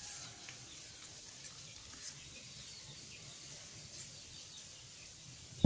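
Quiet background with faint bird chirps, and a single sharp knock near the end from the speaker being handled.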